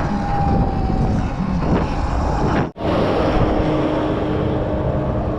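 Wind noise and road rumble from riding a Sur-Ron Light Bee X electric dirt bike, with a faint steady whine. The sound cuts out for an instant a little past halfway.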